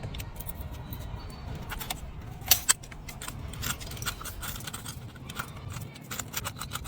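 Irregular light metallic clicks and clinks of tools and a spark plug being fitted into the engine's plug hole, with one louder knock about two and a half seconds in, over a low steady hum.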